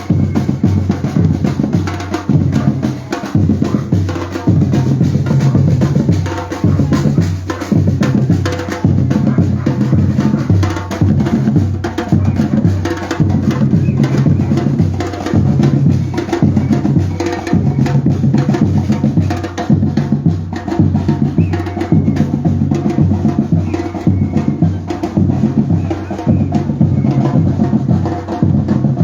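Batucada percussion group drumming: deep bass drums beating a steady, repeating rhythm with sharp clicking strokes over it.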